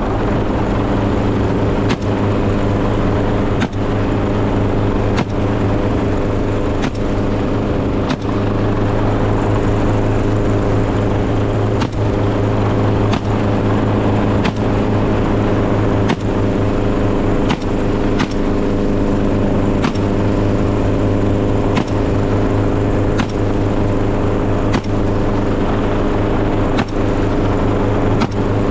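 Engine running at a steady pitch, a low drone, with a short click about every one and a half to two seconds.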